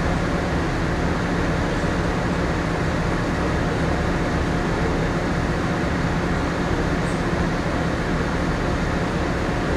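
Steady hum of a moored ship's onboard machinery and air handling, a constant low drone with a few held low tones and no change in level.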